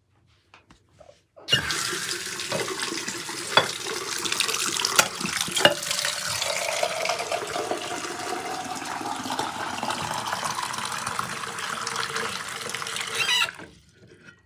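Water running hard from a tap, turned on about a second and a half in and shut off near the end, with a faint tone slowly rising in pitch as it pours. A few sharp knocks sound in the first half.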